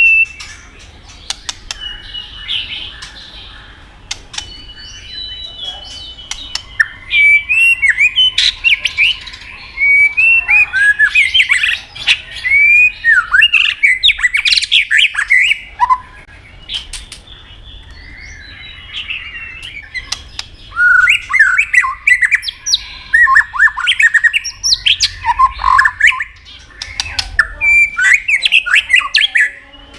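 White-rumped shama singing a varied song of fast whistled notes and sweeping phrases, in two long bursts with a short lull around the middle, with sharp clicks scattered through it.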